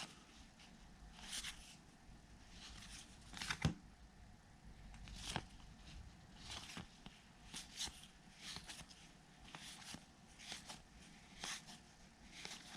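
2021 Topps Heritage baseball cards being flipped through one by one, each card sliding off the stack with a soft, brief swish, roughly once a second.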